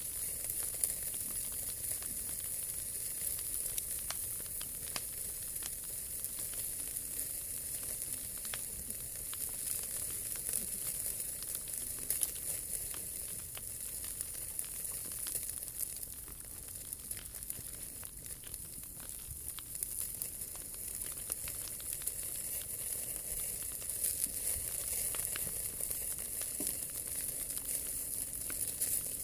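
Wood fire burning in a POMOLY T-Brick Ultra fire pit: a steady hiss with frequent small crackles and pops from the burning wood.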